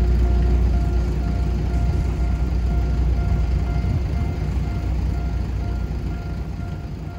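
Diesel-hauled trolley train pulling away along the track, its low engine and rail rumble fading steadily into the distance.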